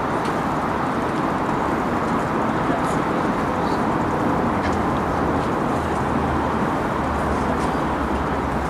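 A passing train's steady rumble, an even noise of wheels and running gear with a faint low hum, with a few faint high chirps over it.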